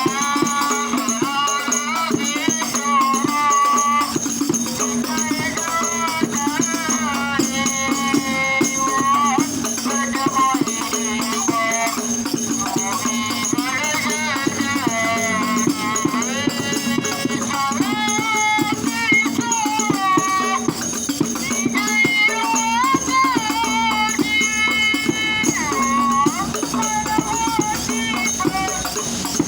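Hadroh music: rebana frame drums and jingling percussion beating a steady rhythm under a voice singing a wavering devotional melody.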